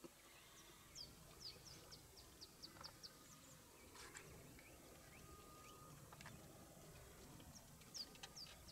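Faint bird calls: a quick run of about a dozen short, high, falling chirps starting about a second in, and a few more near the end, over quiet background noise.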